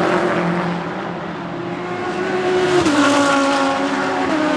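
GT3 race car engine at full throttle, its pitch climbing slowly and then dropping sharply on an upshift about three seconds in and again near the end.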